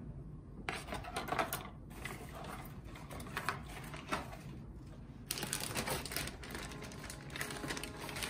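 A package being handled and opened by hand: irregular rustling, scraping and light clicks of packaging, starting about a second in and getting busier about halfway through.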